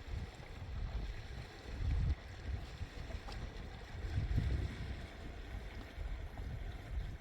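Wind buffeting the microphone in uneven low rumbling gusts, over a steady rush of flowing river water.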